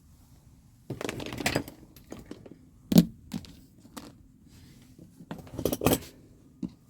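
Small parts and tools being handled on a workbench: a short clatter, then separate sharp clicks and knocks of hard objects set down and picked up.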